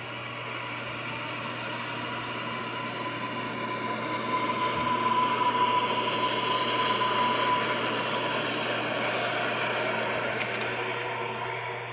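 Electric train passing: a rushing noise with a steady high whine swells to its loudest about halfway through and then fades.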